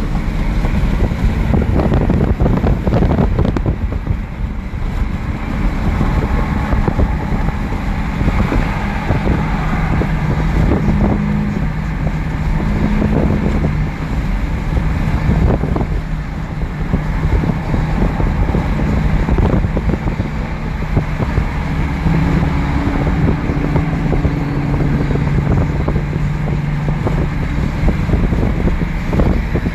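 Car driving at highway speed: a steady engine drone with wind rushing over the microphone. A slightly higher engine tone comes in briefly twice, about a third of the way in and again past two thirds.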